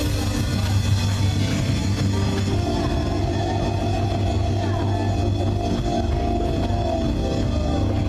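Live gospel worship music played by a church band: long sustained chords held over a steady low bass.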